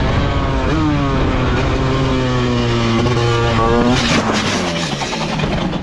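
Motorcycle engine on a racetrack accelerating hard, its pitch dropping at a gear change near the start and then climbing steadily. About four seconds in there is a rough burst of noise, and the engine note falls away as it slows.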